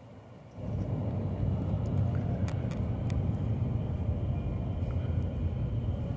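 Train running through the station: a steady deep rumble that starts abruptly about half a second in, with a few sharp clicks partway through.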